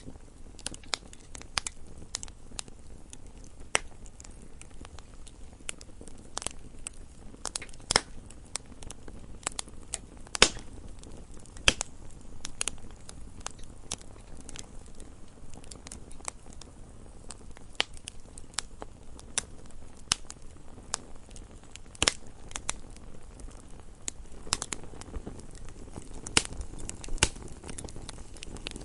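Wood fire in a fireplace crackling: irregular sharp pops and snaps, several a second at times, over a soft steady low background of the burning.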